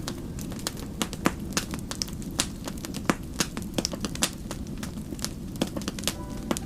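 Wood fire crackling: irregular sharp pops and snaps, several a second, over a low steady rush.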